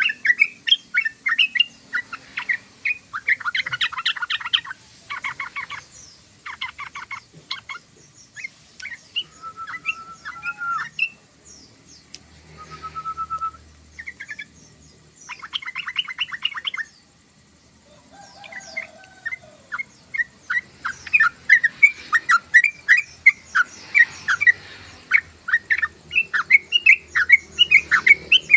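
Yellow-vented bulbul (trucukan) chattering: rapid runs of sharp chirps with a few buzzy rattles and short whistled notes, pausing briefly about two-thirds of the way through before the chatter resumes.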